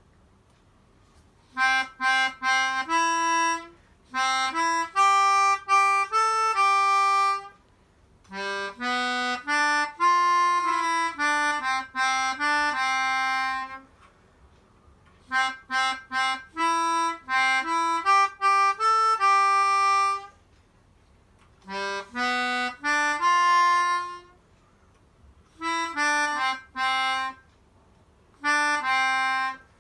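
Melodica (pianika) playing a simple song melody solo, note by note, in phrases of a few seconds with short pauses between them.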